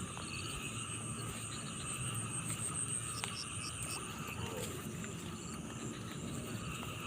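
Steady chorus of frogs and insects calling, several trilling voices layered at different pitches, with a short run of four quick chirps about three seconds in.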